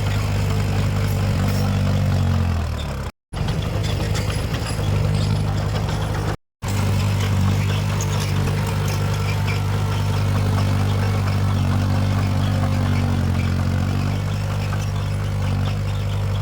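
Heavy diesel engine of earthmoving machinery running steadily under load, its pitch dipping about three seconds in and rising and falling again near the end. The sound cuts out for an instant twice early on.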